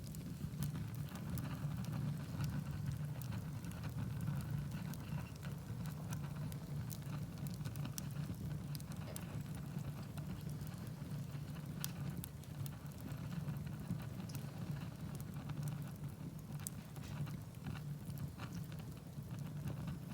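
Wood fire burning in a fireplace: a steady low rush of flame with scattered sharp crackles and pops throughout.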